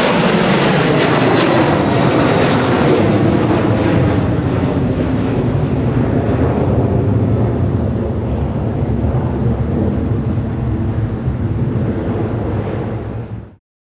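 Jet airliner's engines passing close, their whine falling in pitch over the first few seconds, then settling into a steady low rumble as the aircraft moves away.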